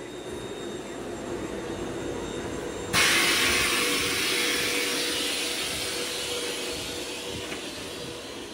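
A Class 334 electric multiple unit standing at the platform with a steady hum. About three seconds in, a sudden loud hiss of compressed air venting starts and fades slowly over the next few seconds.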